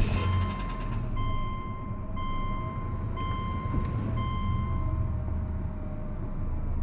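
2005 Subaru Legacy 2.5i flat-four engine idling just after starting, with a dashboard warning chime beeping about once a second for four beats. The engine's noise is the one the owner suspects may be knock, piston slap or a tensioner pulley.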